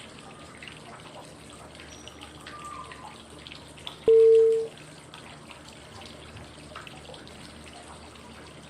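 Steady trickling, dripping water white noise, with one short cue tone about four seconds in that marks the next five-second step of the 555 breathing cycle (inhale, hold, exhale). The tone is the loudest sound.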